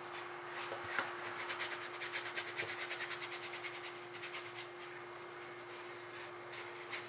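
A paintbrush dabbing and scrubbing rapidly on the painting surface, about four or five strokes a second, tailing off after a few seconds.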